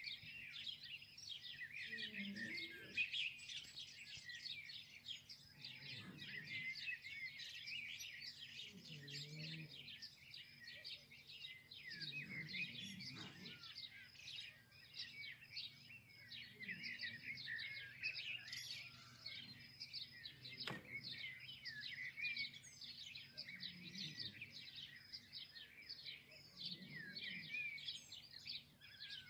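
A dense chorus of many small birds chirping and twittering without a break, with faint low sounds every few seconds beneath it.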